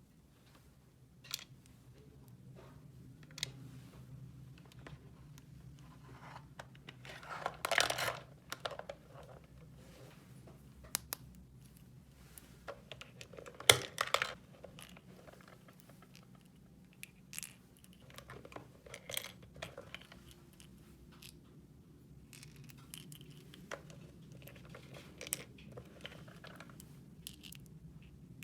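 Small plastic toy pieces and their packaging being handled: scattered light clicks and taps, a burst of crinkling packaging about eight seconds in, and one sharp snap near the middle.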